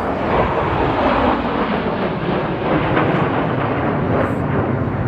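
Loud jet roar of F-16 fighter jets flying past. The roar is strongest as it begins and then holds steady.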